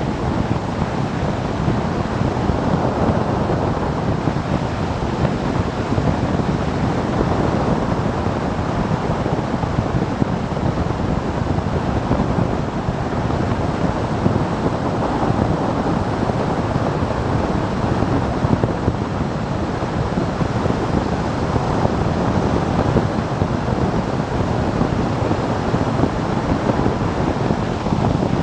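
Steady wind rush buffeting the microphone of a camera on a motorcycle riding at speed, with the road and engine noise buried in it.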